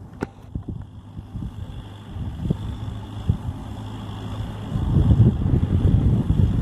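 Kubota M6040SU tractor's diesel engine running steadily with a low hum and some knocks. It grows louder and rougher about five seconds in.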